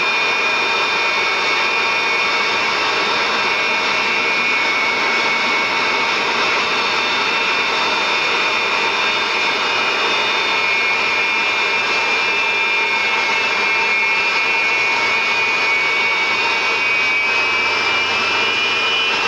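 Jet engines of aerobatic trainer jets running on the ground before take-off: a steady high turbine whine over a rushing hiss, its pitch rising slightly near the end.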